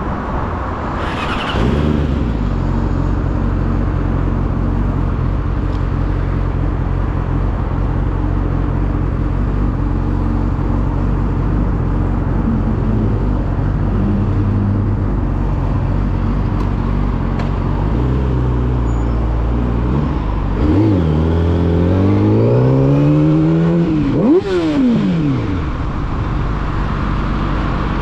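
Yamaha YZF-R6 inline-four sport bike engine with an aftermarket full exhaust system, running under way at a steady speed for most of the stretch. About three quarters through, the revs climb steeply twice, with a drop between them, and then settle back to a steady note.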